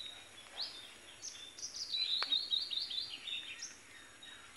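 Small birds chirping and calling: short high whistled notes, with a quick run of rapid chirps in the middle.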